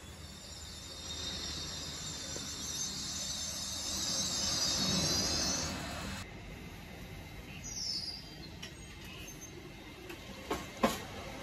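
LNER Azuma high-speed train standing at the platform with a steady hiss and hum from its equipment, swelling about five seconds in. After an abrupt change, the train is moving off, with two sharp clacks near the end from its wheels on the track.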